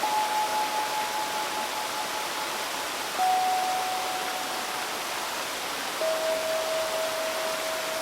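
Three single notes struck on a steel tongue drum, each ringing out long, stepping down in pitch: one at the start, one about three seconds in, one about six seconds in. They sound over the steady rush of a flowing stream.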